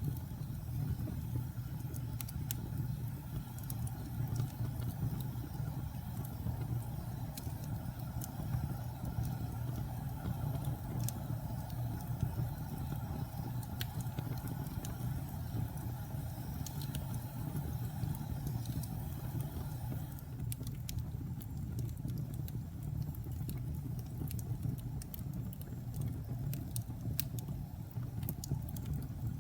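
Fire burning in a fireplace: a steady low rumble with scattered small crackles and pops, and one sharper snap near the end.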